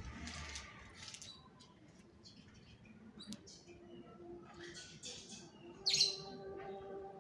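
Canary singing in scattered short chirps and notes, with one louder sweeping note about six seconds in.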